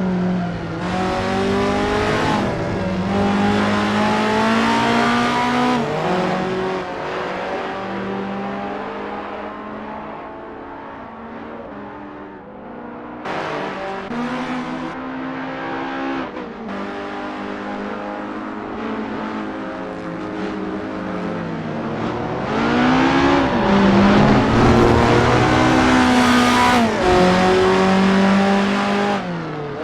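Modern Alfa Romeo Giulia Quadrifoglio twin-turbo V6, fitted in a 1966 Giulia Super, being driven hard: the engine note climbs and falls back again and again as it pulls and shifts. The hardest, loudest pull comes about two thirds of the way through.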